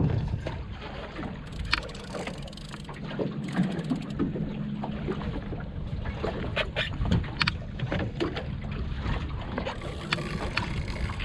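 Sounds aboard a small boat on open water: a low rumble of wind and water against the hull, with scattered knocks and clicks throughout and a sharp knock right at the start.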